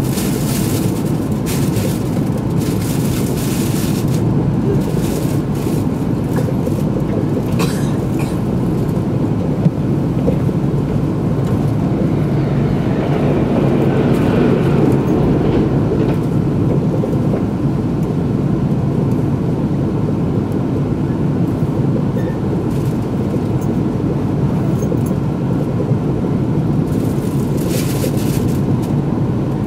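Running noise of an E2-series Shinkansen cruising at speed, heard from inside the cabin: a steady rumble. Around the middle it swells as a commuter train passes close alongside. There is a single sharp click about ten seconds in.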